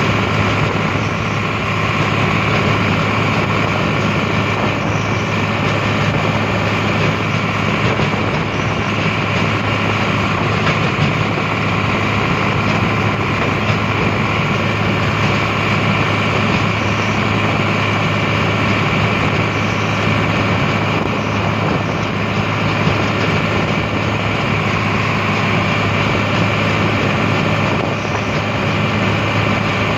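Tractor engine running steadily under way at full speed, its low hum unchanging throughout.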